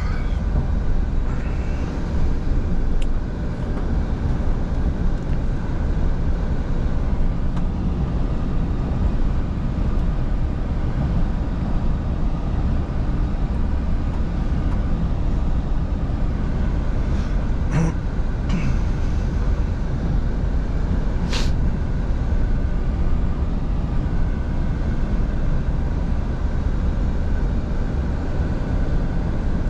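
Scania V8 truck engine running at a steady cruise with road noise. There are a few brief clicks, twice around eighteen seconds in and once about twenty-one seconds in.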